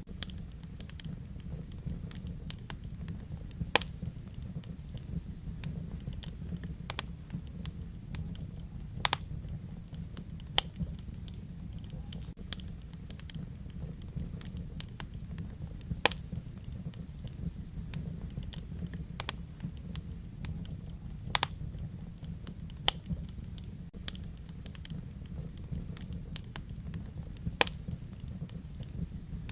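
Wood fire crackling in a fireplace: irregular sharp snaps and pops over a steady low rumble of the burning fire.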